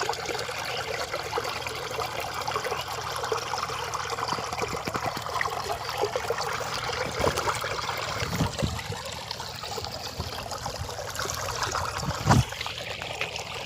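Small stream of water trickling and splashing steadily through a narrow channel, with a brief louder thump about three-quarters of the way through.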